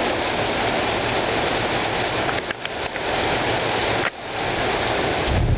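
Heavy rain pouring down in a steady hiss, briefly dipping twice. Near the end a low rumble of thunder rises under the rain.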